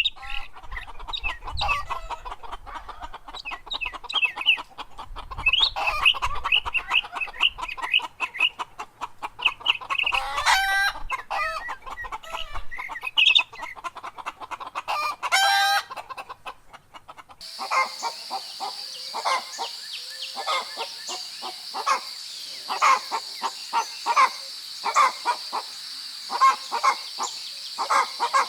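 A flock of chickens clucking, with a rooster crowing twice, about ten and fifteen seconds in. Partway through the sound cuts abruptly, and the clucking carries on over a steady high-pitched hum.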